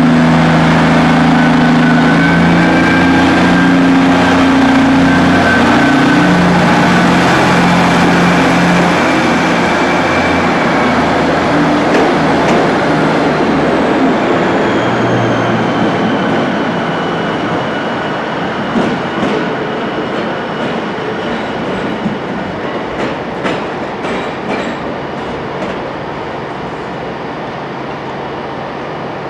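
Diesel train running, its engine note strong at first and then fading as the overall sound steadily drops away. Through the second half come a series of sharp clicks of wheels over rail joints, with faint high wheel whines.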